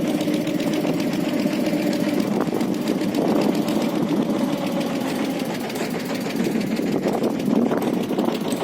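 A boat's engine running steadily, a rapid even chugging under a held hum.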